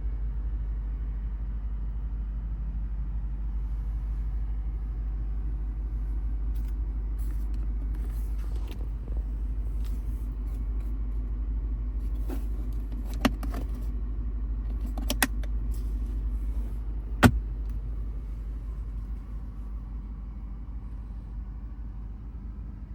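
Steady low rumble from the 2024 Lexus IS 500 F Sport, with a handful of sharp clicks and knocks in the second half, the loudest one a few seconds before the end; the rumble eases off slightly near the end.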